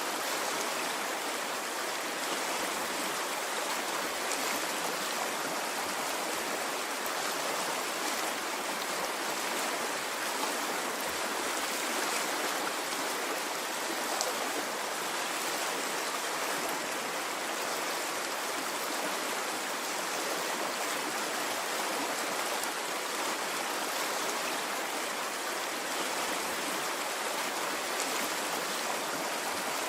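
Steady rushing of a flowing stream, water running continuously without any rise and fall of waves.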